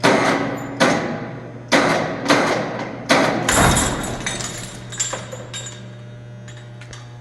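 A run of sharp metallic bangs with a ringing tail, about six in the first three and a half seconds at roughly one every half to one second, one with a heavy low thud, then a few fainter knocks. A steady low hum runs underneath.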